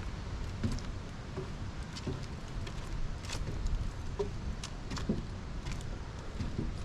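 Footsteps at a walking pace, a short knock every second or less, over a steady low rumble.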